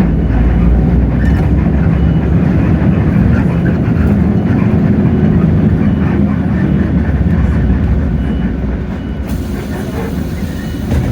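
Hino J08E-VN inline-six diesel engine of a Hino bus running under way, heard from inside the cabin as a steady heavy low rumble with road noise; it eases off and gets quieter about eight seconds in.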